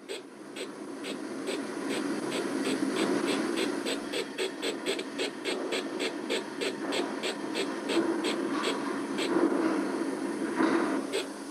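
Sound-equipped model steam locomotive chuffing steadily at about four to five beats a second while it shunts wagons, over a steady low rumble of it running on the track.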